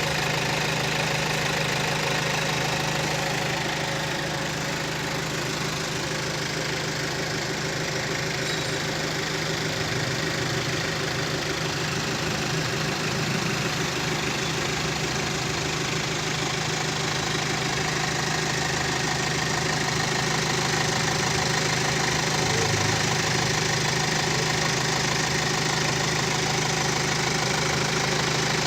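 BMW car engine idling steadily, with no revving, while running through an engine carbon-cleaning treatment.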